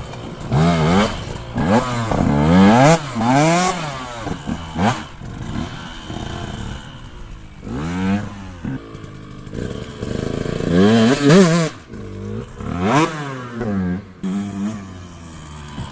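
KTM SX 125's two-stroke single-cylinder engine revving hard and backing off over and over as the motocross bike is ridden, its pitch climbing and then dropping repeatedly, with lower, steadier stretches in between.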